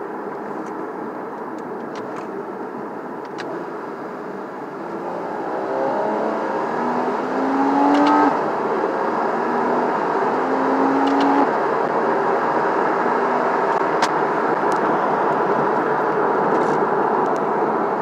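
2014 Porsche Cayman's 2.7-litre flat-six engine and exhaust under hard acceleration, heard from inside the cabin with the windows up. The engine note climbs in pitch and loudness as the revs rise toward 5,000 rpm, drops sharply about eight seconds in, climbs again, and then holds loud at high revs.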